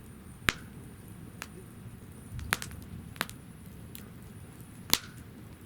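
Wood fire burning in a fire stand, crackling, with about five sharp pops over a low steady rustle of flame; the loudest pops come about half a second in and near the end.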